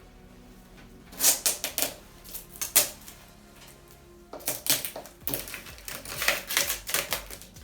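Sellotape being picked at and peeled off a cardboard box: a few sharp crackles, then a longer run of crackling, tearing tape from about four and a half seconds in.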